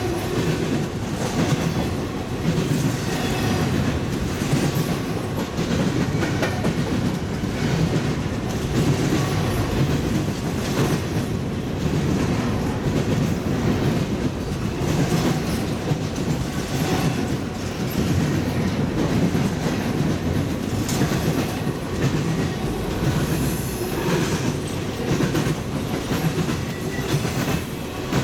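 Two freight trains rolling past at once, double-stack intermodal well cars and coal hoppers: a steady rumble of steel wheels on rail with repeated clickety-clack knocks as the cars' wheels cross the rails.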